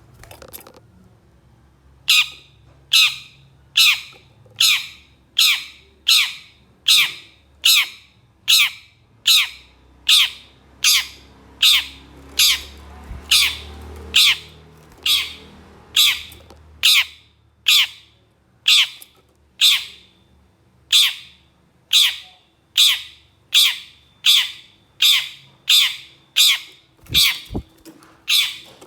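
Long-tailed shrike (cendet) repeating a harsh, rasping call, each one a short falling sweep, about one and a half a second, starting about two seconds in. Two brief low thumps near the end.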